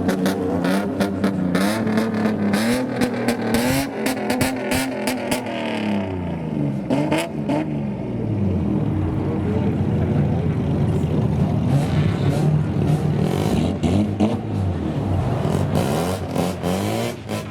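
Engines of modified old Japanese street-racer (kaido racer) cars revving up and down again and again, with sharp crackles through the first six seconds or so.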